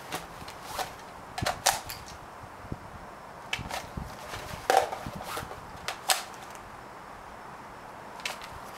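Irregular sharp clicks and clacks of airsoft gear being handled in a reload drill: magazines and a gun being worked, with the loudest knocks about two seconds, five seconds and six seconds in.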